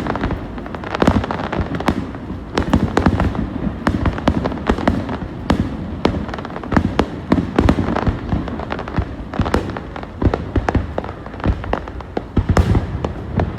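Fireworks going off in a rapid irregular barrage of bangs and crackles, over a steady low rumble.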